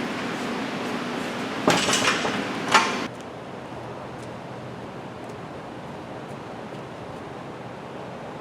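Forklift running with a steady low hum, with loud metal clanking and rattling about two seconds in. The engine cuts off suddenly about three seconds in, leaving a quieter steady shop background.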